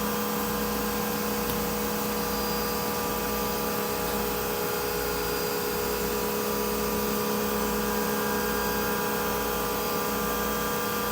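Spindle of a 2008 Anderson CNC router running at 12,600 RPM while the machine runs a circle-cutting program: a steady whine made of several steady tones.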